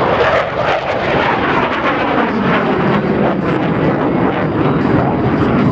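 Jet noise from Blue Angels Boeing F/A-18 Super Hornets flying over the show, loud and steady, with its pitch sliding downward as the jets pass.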